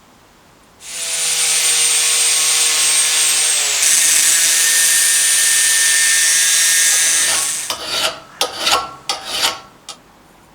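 An electric power tool abrading metal: it starts about a second in and runs steadily with a high whine that dips slightly under load. About seven seconds in it gives way to a few short, uneven bursts.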